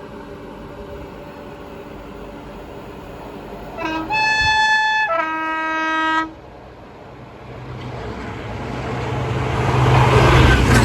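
Diesel locomotive sounding its two-tone horn about four seconds in, one note held for about a second and then the other, over the steady hum of its engine. The engine then grows steadily louder as it approaches, with rushing noise at its loudest near the end.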